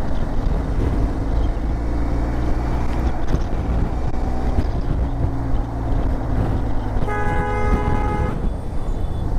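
Motorcycle engine running at steady cruising speed, with road and wind noise. A vehicle horn honks for just over a second about seven seconds in.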